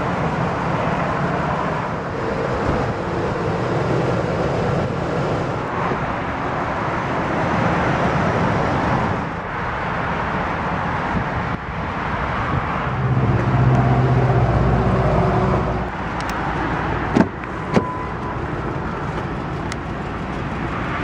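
Steady outdoor vehicle and traffic noise, with a louder low engine rumble that swells about thirteen seconds in and fades a few seconds later, followed by two sharp clicks.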